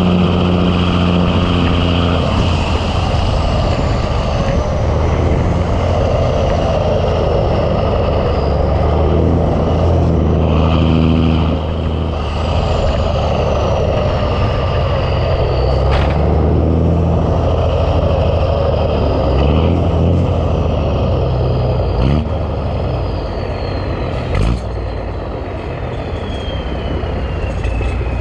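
Big Cam Cummins diesel in a 1986 Ford LT9000 truck running on the road, its pitch changing several times, with a high whistle from the turbo that falls in pitch several times. A few sharp knocks occur along the way.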